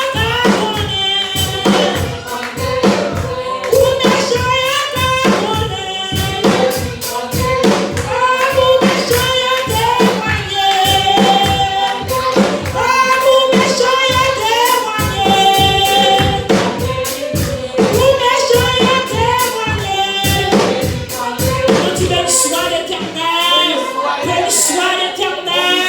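A group of voices singing a worship song over a steady percussion beat. The low part of the beat drops out near the end.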